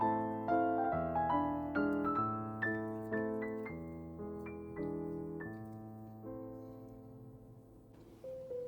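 Background piano music: a gentle run of notes that slows to a held chord, which fades out before the playing picks up again near the end.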